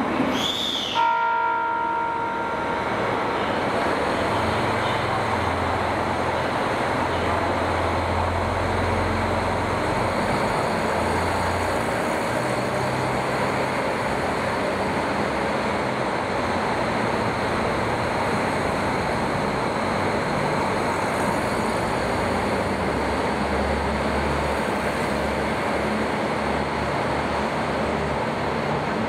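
A train in a station: a short high tone with ringing tones that die away in the first few seconds, then the steady rumble and hiss of the train, with a deeper hum swelling twice.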